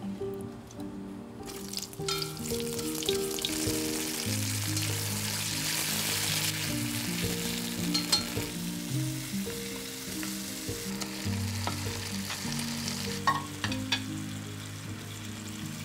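Red onion frying in oil in a pot, a steady sizzle that starts about a second and a half in and is loudest through the first half, with a few sharp clicks later on. Soft instrumental music plays throughout.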